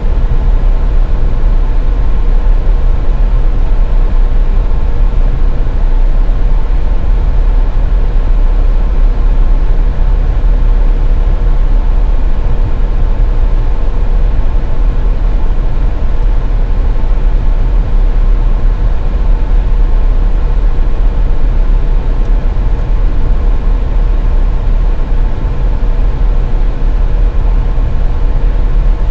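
Steady road noise of a car driving on a snowy highway: a loud, unbroken low rumble of tyres and engine with a faint steady hum over it.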